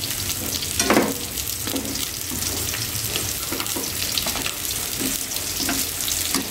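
Eggplant strips and minced pork sizzling in a hot oiled pan as they are stir-fried with chopsticks. Small clicks run through it, with a brief louder clatter about a second in.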